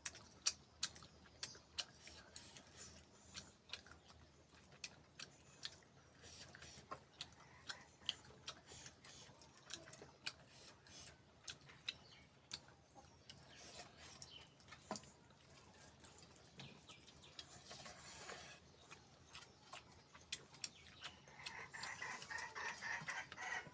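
Close mouth sounds of someone chewing pork feet: many small, irregular wet clicks and smacks. Near the end a louder sound with a pitched edge comes in.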